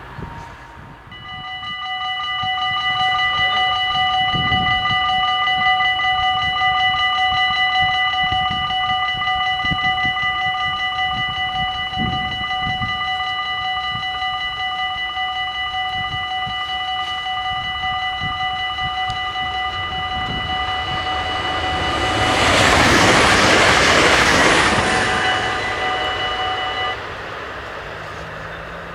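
Electric level-crossing bells ringing rapidly and continuously, starting about a second in and stopping suddenly near the end. About 22 seconds in, a train rushes past loudly over the crossing for a few seconds.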